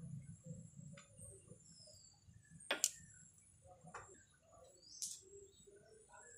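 Faint bird chirps in the background, broken by a few sharp clicks or taps, the loudest about three seconds in.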